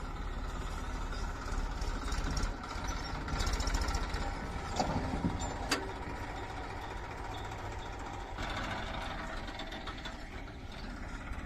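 JCB 3DX backhoe loader's diesel engine running steadily, with a sharp click about six seconds in.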